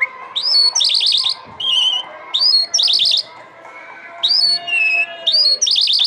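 Lark singing: a repeated phrase of a rising whistled note followed by a fast rattling trill, about four times, with short steady whistles in between.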